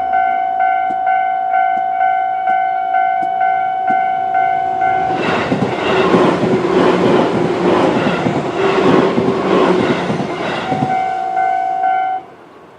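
Level crossing warning alarm ringing in steady quick pulses, about three a second. A Tobu 10000 series electric train runs through the crossing for about five seconds, its wheels clattering rhythmically over the rail joints and drowning out the alarm. The alarm rings on briefly after the train has passed, then cuts off abruptly near the end.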